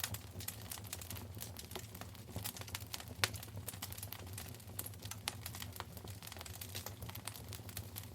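Wood fire in a fireplace crackling, a dense run of small irregular pops with one sharper pop about three seconds in, over a low steady rumble.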